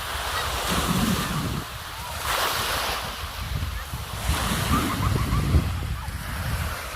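Small waves of the Sea of Azov breaking and washing onto the beach, swelling and falling back every couple of seconds, with wind buffeting the microphone.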